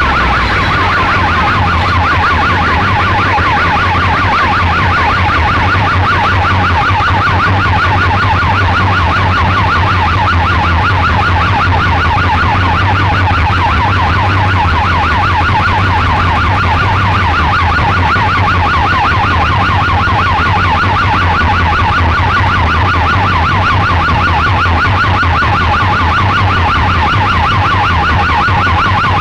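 A fast warbling siren-style tone played loud through a DJ sound system's speaker cabinets, over a steady deep bass drone.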